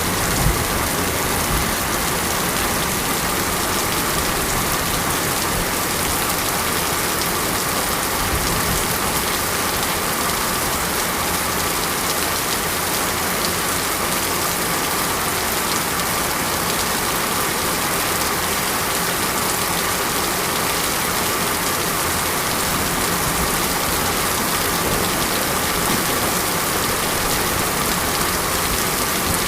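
Steady rain falling on surfaces, an even hiss with no let-up.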